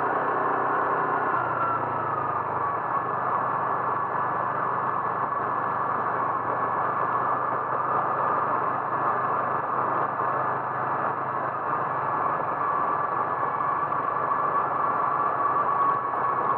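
Motor vehicle running steadily, with engine hum and road noise and a faint high tone that drifts slightly in pitch.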